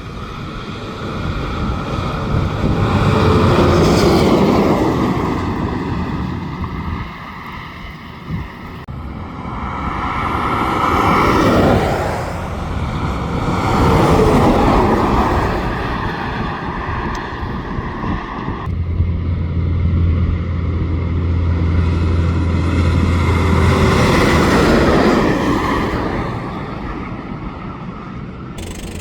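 Trucks and other road traffic driving past, several pass-bys in turn, each swelling and fading, with a steady low engine hum under the later ones.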